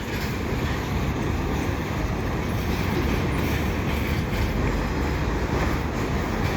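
Freight train of loaded double-stack container cars being shoved slowly by diesel switching locomotives: a steady rumble of rolling railcars and running engines.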